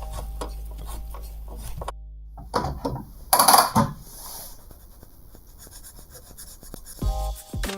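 Abrasive rubbing and scraping on a knife, with a short loud stretch about a second and a half in, then fainter steady rubbing. Background music plays at the start and comes back near the end.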